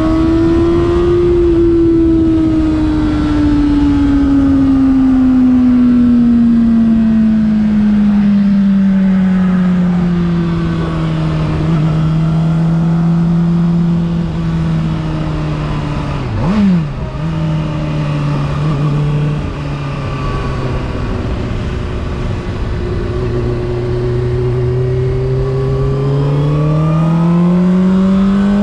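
Honda CBR600RR's inline-four engine under way. Its note sinks slowly as the bike rolls off, gives one quick rev blip about halfway through, then rises steadily as it accelerates near the end, over a constant rush of wind and road noise.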